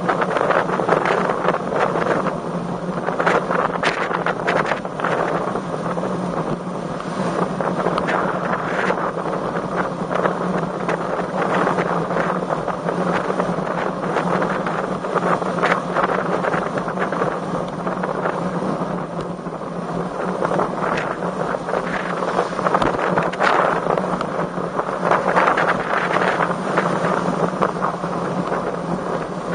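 Strong wind buffeting the microphone while riding a road bike: a steady rushing noise that swells and eases, with a low steady hum underneath.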